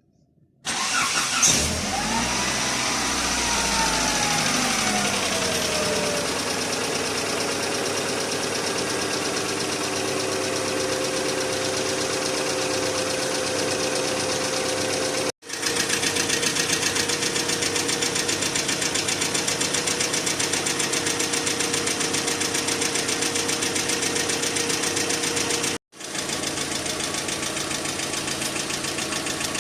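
Car engine starting on its first start after an engine flush and fresh oil, revving up and then settling to a steady idle. Through the idle runs a rapid ticking clatter from the hydraulic valve lifters, still there after the flush. The sound breaks off for an instant twice.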